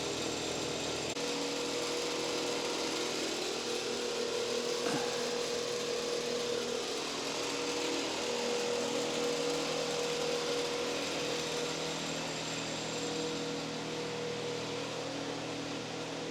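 A machine running steadily: an even hiss with a steady whine that sets in about a second in and holds.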